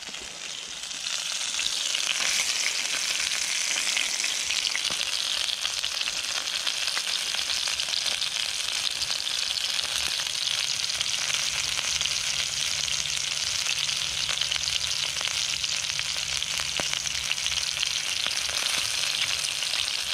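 Pitta bread and minced-meat kebabs sizzling on a hot cast-iron pan, a steady hissing fry. The sizzle grows louder about a second or two in and then holds steady, and a faint low hum joins about halfway.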